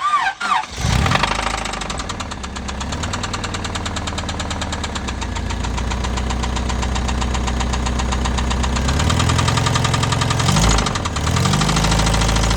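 Honda Civic's four-cylinder engine starting up and then idling with a rapid, steady knocking from a worn connecting-rod bearing (rod knock). The engine speed dips briefly about ten seconds in.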